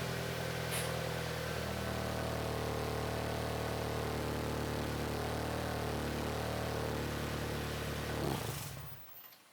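Acura RSX four-cylinder engine idling loud and steady through a new custom exhaust on a cold start. Shortly before the end it rises briefly, then is switched off and runs down to a stop.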